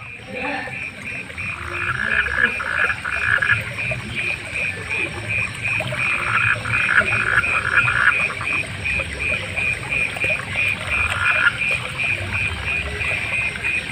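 A frog chorus at night: a steady, evenly repeated pulsing call runs throughout, about three pulses a second. Three times, another frog breaks in with a louder, faster run of calls.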